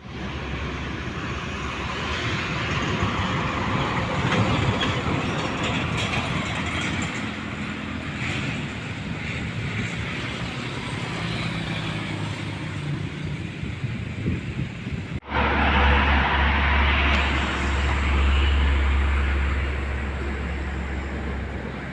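Roadside traffic with vehicles going past. About two-thirds of the way through the sound cuts off abruptly and comes back with a louder low rumble.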